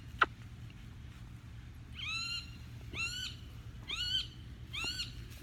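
Pet parrot calling over and over, four short rising squawks about a second apart, after a single sharp click near the start.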